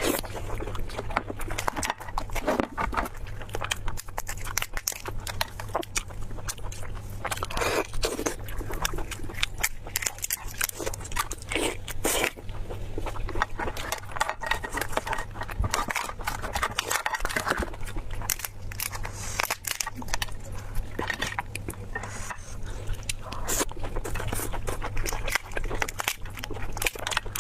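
Close-miked eating sounds: crunching bites, chewing and wet mouth sounds in an irregular stream of clicks and smacks, over a steady low hum.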